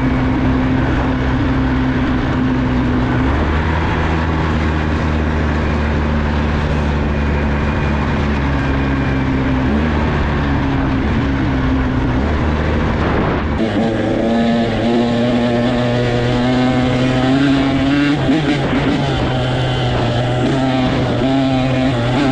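Small off-road vehicle engine running at a steady speed. About two-thirds of the way through, the sound cuts abruptly to an engine whose pitch wavers up and down with the throttle.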